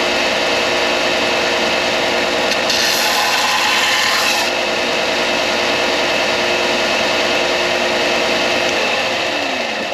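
Belt sander running steadily while an oak-and-deer-antler pen blank is ground against the belt, squaring up the joint; the grinding turns harsher for a couple of seconds about three seconds in. Near the end the sander is switched off and its motor winds down in falling pitch.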